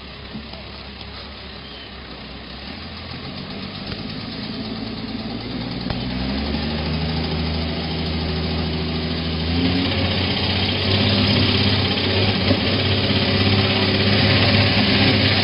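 Truck engine running, its revs stepping up about six seconds in and again near ten seconds as it works harder, growing steadily louder with a rising rush of noise.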